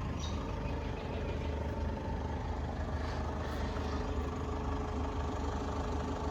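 Vehicle engine idling steadily: a constant low rumble with a steady hum above it.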